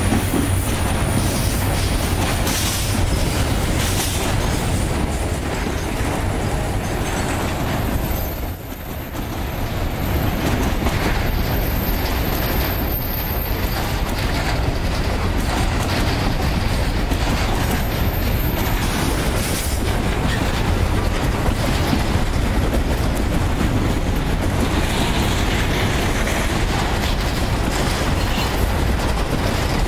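Freight train passing close by. The diesel-electric locomotives' engines hum low at the start, then a string of hopper cars rolls past with a steady clickety-clack of wheels on the rails. A thin, high wheel squeal sounds for several seconds through the middle, and the sound briefly drops about eight seconds in.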